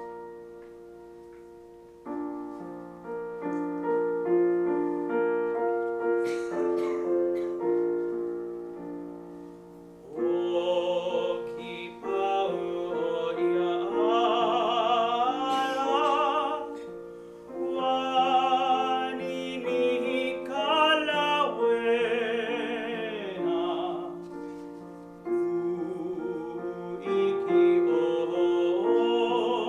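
Baritone singing a Hawaiian art song with piano accompaniment. The piano plays alone for about the first ten seconds, then the voice comes in with a wide vibrato, in phrases broken by short breaths.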